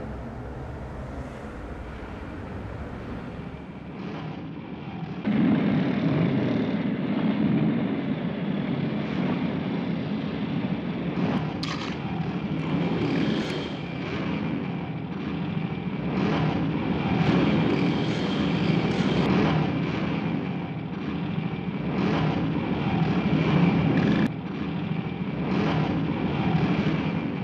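Motorcycle engines running, growing suddenly louder about five seconds in.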